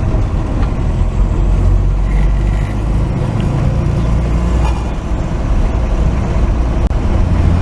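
1949 Chevy pickup truck on the move: a steady, loud low engine and road rumble.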